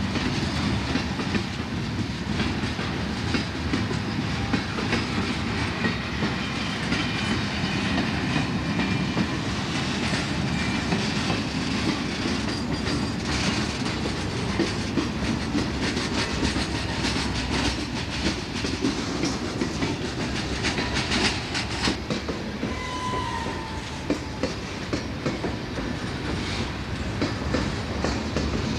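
Canadian Pacific freight train's cars rolling past, steel wheels clattering steadily over the rail joints.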